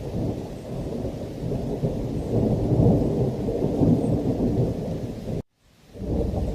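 Rolling thunder rumbling continuously under heavy rain, swelling in the middle. About five and a half seconds in the sound cuts out suddenly for a moment, then comes back.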